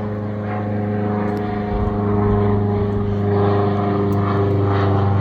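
Propeller-driven small plane flying over: a steady engine drone that grows gradually louder.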